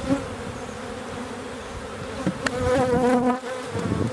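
Honey bees buzzing around an open hive, a steady hum. About two and a half seconds in there is a sharp click, then a louder buzz that wavers in pitch for about half a second.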